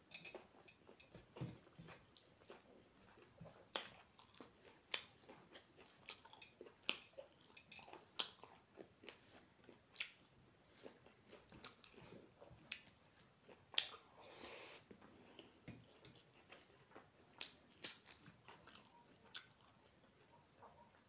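Quiet, close-miked eating sounds: chewing with irregular wet mouth clicks and smacks as rice and fried pork are eaten by hand.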